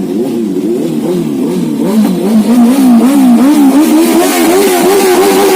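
Superbike engines revving hard, their pitch swinging up and down about twice a second, then held at a steady high rev near the end.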